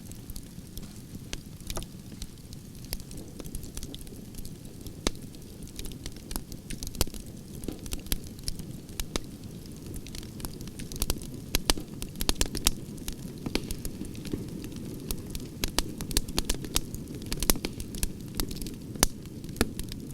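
Campfire of burning logs crackling and popping, with sharp irregular snaps over a low steady rush of flame; the pops come thicker and louder in the second half.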